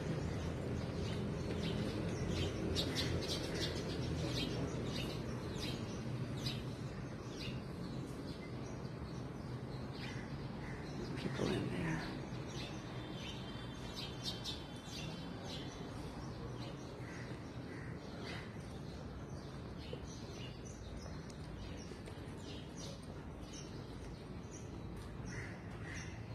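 Birds chirping again and again over a steady low background rumble, with one brief louder swell about eleven seconds in.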